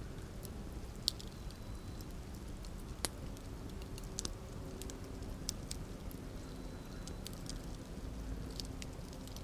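Campfire burning: a steady low rumble with scattered crackles and pops of the burning wood, the sharpest about a second in and again about three seconds in.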